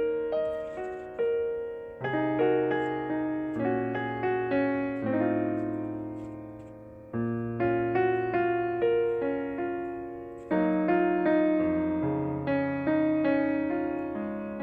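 Background music: a piano playing a slow melody over chords, each note struck and left to fade.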